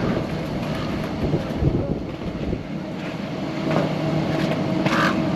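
Steady low drone of ship and port machinery with some wind on the microphone; a low hum joins in partway through. Near the end a raven gives a hoarse croak.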